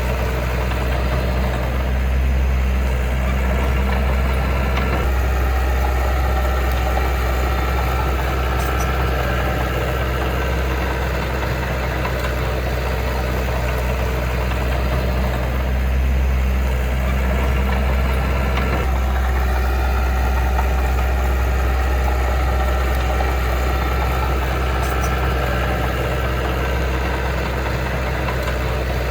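Heavy earthmoving machine's diesel engine running steadily at low revs, a deep continuous drone. Its note shifts slightly about five and again about nineteen seconds in.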